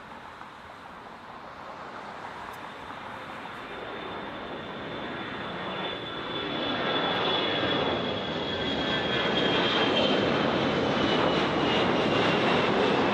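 Jet airliner's engines passing close by, growing steadily louder over several seconds and then holding loud. A high whine slowly drops in pitch as it goes by.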